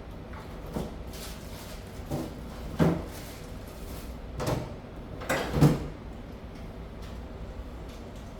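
A series of about six knocks and bumps over a faint steady background, the loudest about three seconds in and again a little past five and a half seconds.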